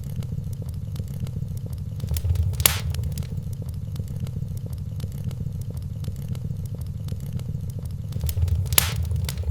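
Wood fire in a fireplace crackling: many small snaps, with two louder pops, one about a third of the way in and one near the end, over a steady low rumble.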